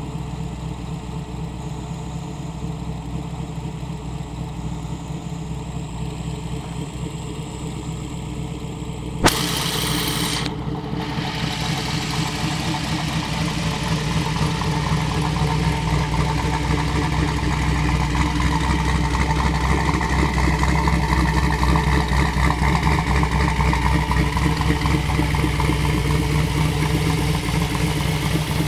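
Twin-turbocharged 1967 Chevrolet Camaro engine running at idle. About nine seconds in there is a sharp click and a short burst of hiss, after which the engine grows gradually louder.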